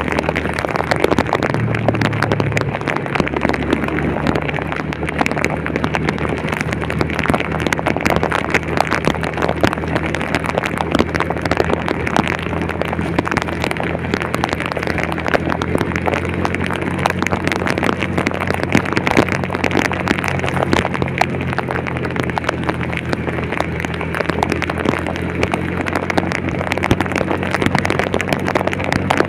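Heavy rain pattering densely on a vehicle, with a steady low engine hum underneath.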